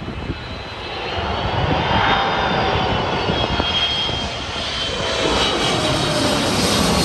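A Boeing 777-300ER's GE90 turbofan jet engines, growing louder over the first two seconds and then holding. The sound is a steady rush with a high whine on top, and its pitch falls slightly later on as the airliner goes by.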